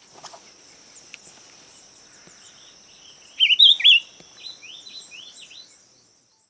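Tawny-breasted wren-babbler singing: one loud, quick phrase of a few wavering notes about three seconds in, followed by a quieter run of short sloping notes.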